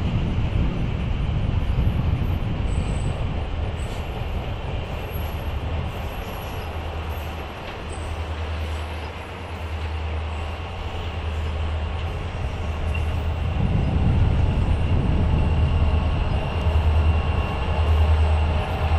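A passenger excursion train running by with a steady low rumble, growing louder about two-thirds of the way through.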